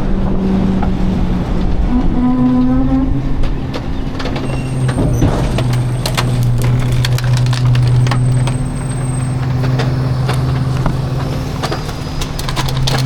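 Garbage truck engine running with its compactor working, the engine note stepping up about two seconds in and then holding steady, over repeated cracking and knocking of debris being crushed.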